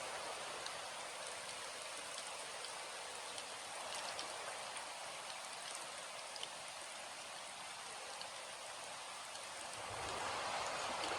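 Steady rain falling, an even hiss dotted with small drop ticks. Near the end the rain swells and a low rumble comes in underneath.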